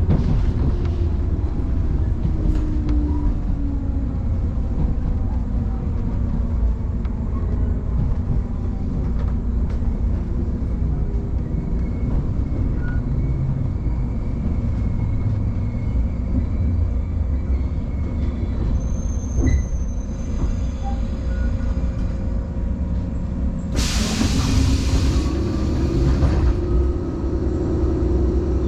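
Electric commuter train heard from inside the carriage, pulling into a station: low running rumble, with a motor whine falling in pitch as it slows in the first few seconds. About 24 s in comes a loud hiss of compressed air lasting two or three seconds, followed by a steady hum while the train stands.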